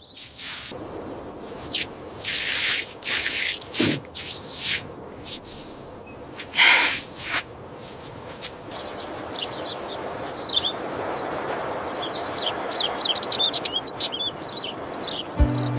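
Small birds chirping in short high calls over a steady background hiss, through the second half. A run of loud, noisy swishes comes before them in the first half.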